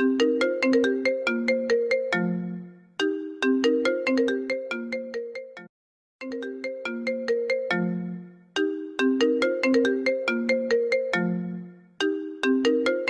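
Apple phone ringtone playing: a quick melody of struck, ringing notes, the phrase repeating about every three seconds, with a brief silent gap about halfway through.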